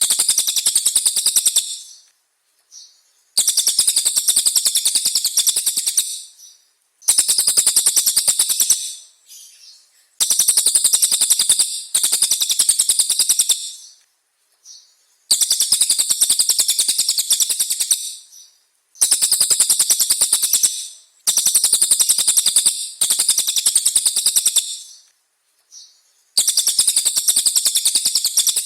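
A songbird singing in repeated bursts of two to three seconds, each a fast, dense rattling trill of high notes, with pauses of about a second between them; about nine bursts in all.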